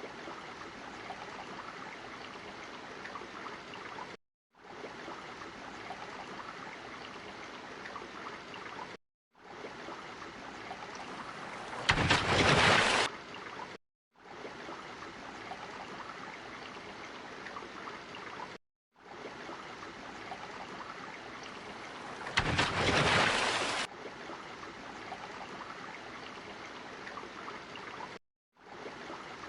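Ocean water sound effect: a steady rushing, watery noise broken by brief dropouts to silence every few seconds, with two louder surges of rushing water about 12 and 23 seconds in.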